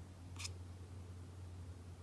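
One short, scratchy rustle about half a second in, over a faint steady low hum.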